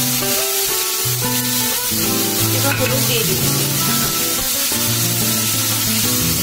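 Chicken frying in oil in a kadai with onion, ginger, garlic and chilli, sizzling steadily under background music that plays a stepping melody.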